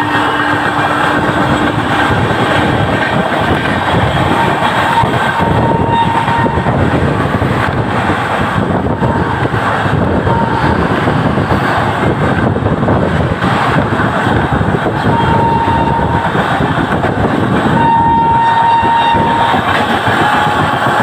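Running noise of two trains side by side at speed, heard from the open door of an ICF passenger coach: a steady, loud rumble of steel wheels on rail. A few short steady tones sound over it now and then, the longest near the end.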